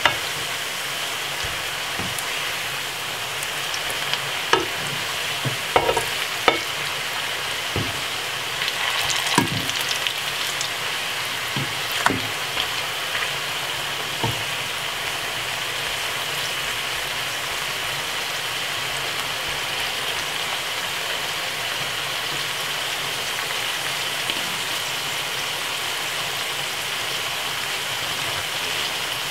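Ripe plantain slices sizzling steadily in shallow oil in a frying pan. Through the first half, short clicks and taps of metal tongs against the pan as the slices are turned over.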